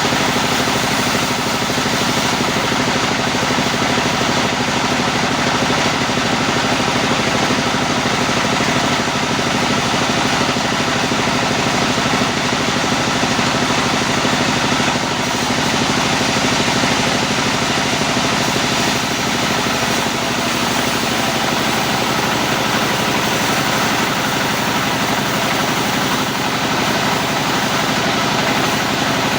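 Sawmill machinery running steadily: a constant motor drone with a dense rushing noise over it, dipping slightly about halfway through.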